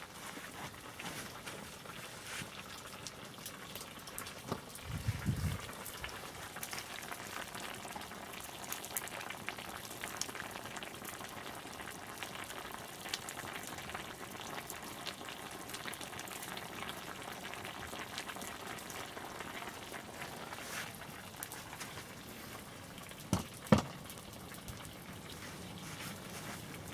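Wood bonfire crackling and hissing with small pops throughout. There is a low thud about five seconds in and a sharp knock near the end.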